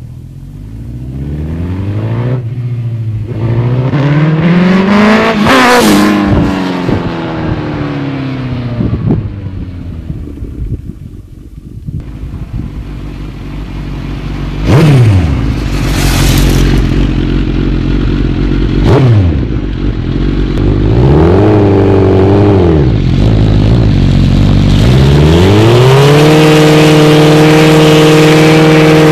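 Suzuki GSX-R1000 inline-four through a Yoshimura exhaust, revved up and down several times with two sharp blips in the middle. About 25 seconds in it climbs and holds steady at high revs with a rushing noise over it as the rear tyre spins in a short burnout.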